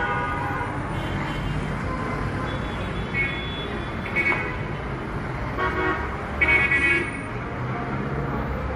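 Road traffic with car horns honking: several short honks over a steady rumble of engines, the longest and loudest honk a little before the end.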